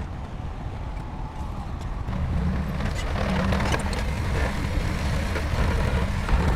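Shantui bulldozer's diesel engine running under load, growing louder about two seconds in, with a few sharp clanks.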